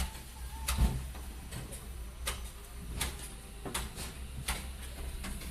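A series of sharp knocks and bangs at irregular spacing, about six in all, over a steady low rumble, as blocks of ice are handled and stacked while being loaded onto a boat.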